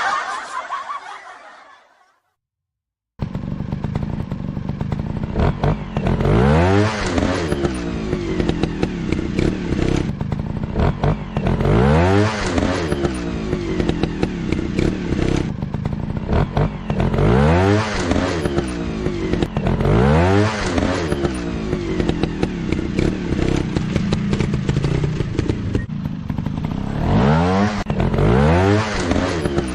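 Dirt bike engine running, revved again and again every two or three seconds, each rev a rise and fall in pitch over a steady rough running note. It starts about three seconds in, after a fading sound and a moment of silence.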